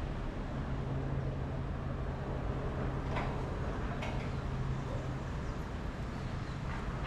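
Steady city street noise with a constant low hum, and two faint ticks about three seconds in and a second later.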